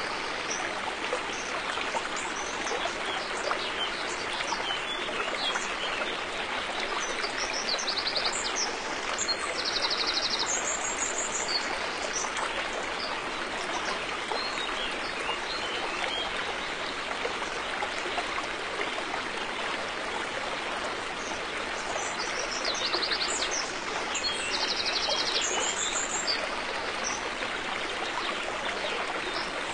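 River water flowing steadily, with a bird singing short rapid trills a few times, twice in clusters around a third of the way in and again near the end.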